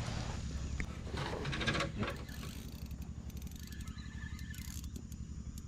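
Small spinning fishing reel being cranked: a steady, rapid mechanical clicking of the reel's gearing.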